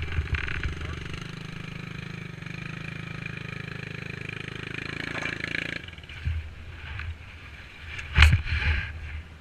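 Dirt bike engine running at a steady speed, then cutting off sharply about six seconds in. After it, low thumps and a sharp knock near the end.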